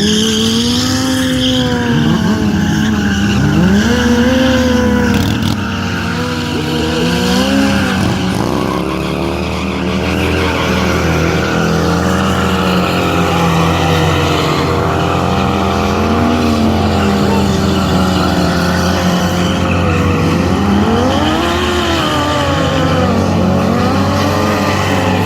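Motorcycle engines revving hard during stunt riding, the pitch climbing and falling again and again as the throttle is worked.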